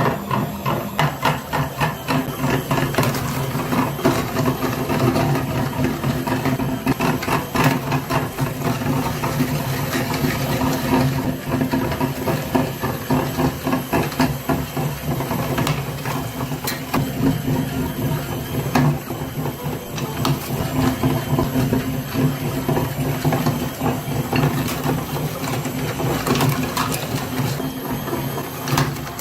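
Electric meat grinder running with a steady motor hum, with many irregular sharp clicks as material is forced through it.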